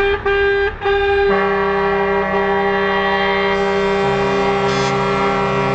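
Multi-tone truck air horns blowing long held notes. One note sounds almost at once and breaks off briefly, more notes join about a second in to sound together as a chord, and a lower note comes in about four seconds in.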